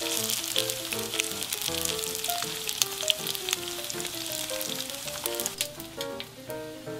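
Fried mandu dumplings sizzling and crackling in hot oil in a frying pan, being re-fried to crisp them, the crackle easing off near the end. Light background music plays underneath.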